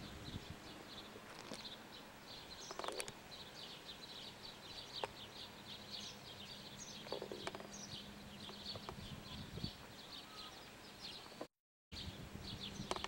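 Faint outdoor ambience of small birds chirping irregularly, with a steady low hum underneath and a few light knocks. The sound drops out completely for a moment near the end.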